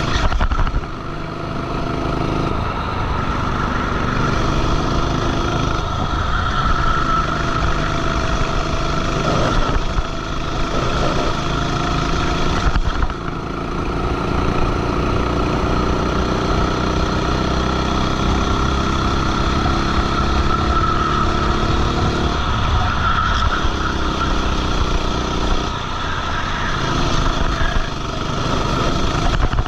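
Racing kart engine heard on board at full throttle. Its pitch climbs steadily along the straights and drops sharply several times as the throttle is lifted for corners.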